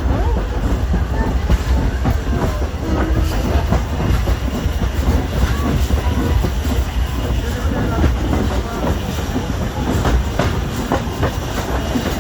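Vintage railway train running along the track: a steady low rumble with the wheels clacking over the rail joints.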